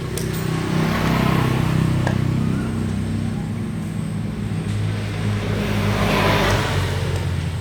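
Small 8 HP four-stroke diesel engine running steadily, growing louder twice: about a second in and again near the end.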